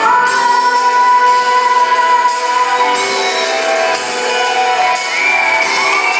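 Live band playing an instrumental passage of a pop ballad, with guitar and keyboard chords held steady under a sustained melody line.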